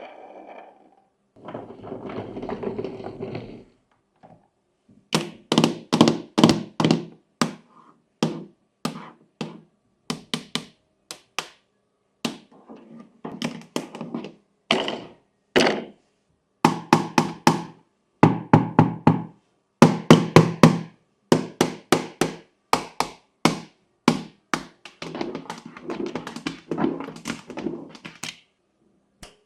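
Fidget toys being pressed and popped by hand: runs of sharp pops and clicks, several a second, with short rattling stretches about two seconds in and near the end.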